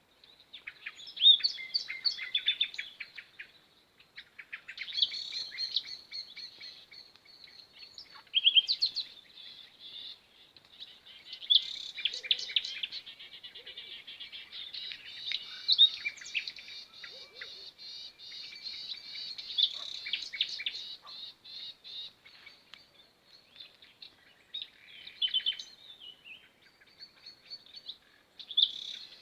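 Small songbirds chirping and twittering, several calls overlapping in continuous chatter of short, high chirps and quick trills.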